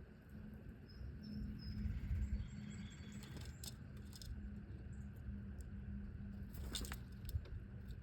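Small birds giving a few faint high chirps, with scattered sharp taps and clicks over a steady low hum.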